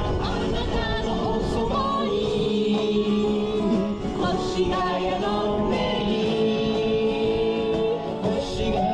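Live pop song: singing with acoustic guitar accompaniment, with held, sliding vocal notes. Strong wind rumbles on the microphone throughout.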